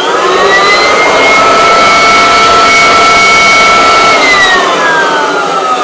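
Kirby Classic III upright vacuum cleaner's motor spinning up with a rising whine, running steadily at full speed, then switched off about four seconds in and winding down with a falling whine. A little noisy.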